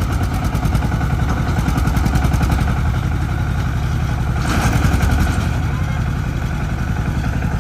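Engine of a three-wheeled farm vehicle running steadily with a fast, even chugging pulse, with a brief louder rush of noise about four and a half seconds in.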